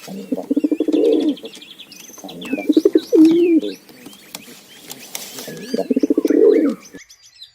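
Pigeon cooing: three low coos a couple of seconds apart, with small birds chirping faintly behind. The sound cuts off just before the end.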